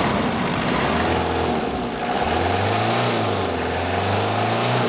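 1987 Toyota Blizzard's 2.4-litre 2L-T turbo diesel being revved by hand. The engine note climbs, dips about two seconds in, then climbs again and holds.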